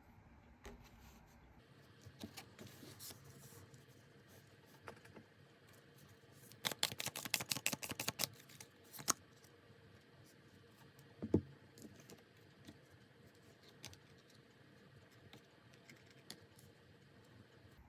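Tarot cards being handled on a table: scattered light taps and clicks, with a quick run of rapid clicks a little before the middle, as in shuffling, and a sharper knock a few seconds later.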